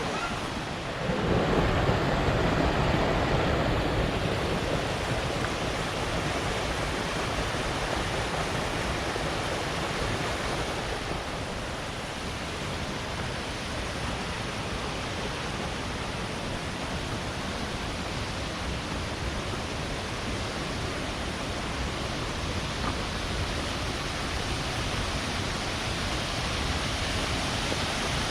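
Shiraito Falls rushing steadily, a little louder for a few seconds about a second in.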